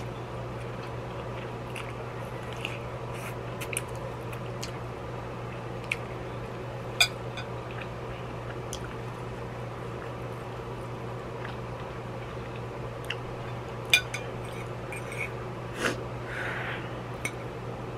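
A person eating noodles: chewing and slurping, with a few sharp clicks, loudest about 7 and 14 seconds in, over the steady hum of an electric fan.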